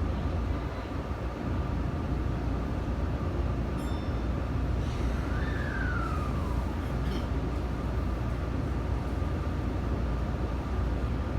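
Tokyo Metro Tozai Line train running between stations, heard inside the car: a steady low rumble of wheels and motors. About five and a half seconds in, a short whine falls in pitch.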